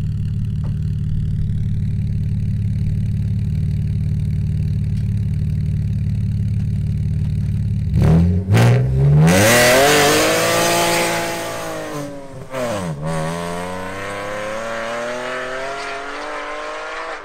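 Alfa Romeo 147 GTA's 3.2-litre Busso V6 idling, then about eight seconds in pulling away hard, revving up through the gears with the pitch dropping at each upshift. It fades as the car drives off.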